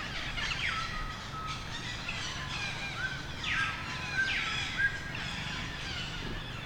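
A baby monkey crying: a string of high, whistle-like calls, some sliding steeply down in pitch and then holding, repeated every second or so.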